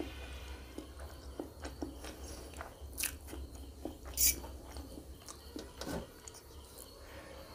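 A person chewing and slurping spicy instant noodles: a run of wet mouth clicks and smacks, the loudest about three and four seconds in.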